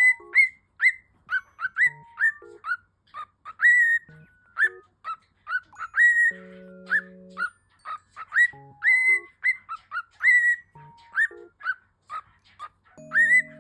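A pet bird's whistled chirps, short rising notes repeated several times a second in a song-like sequence, over a few held notes of music.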